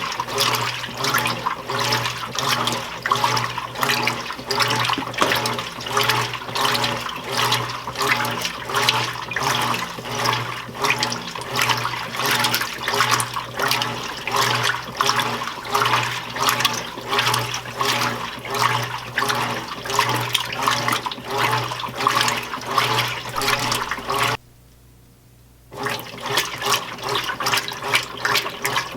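Admiral (Whirlpool-built) belt-drive top-load washing machine in its wash agitation: the single-action agitator churns water and clothes in quick, rhythmic surges over a steady motor hum. The sloshing drops out for about a second near the end, then resumes.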